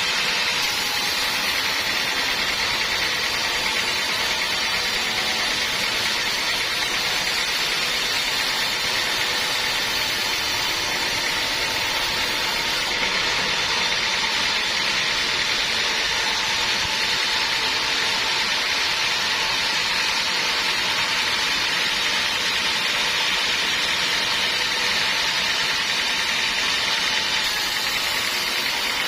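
Sawmill machinery running, a steady mechanical noise that holds the same level throughout.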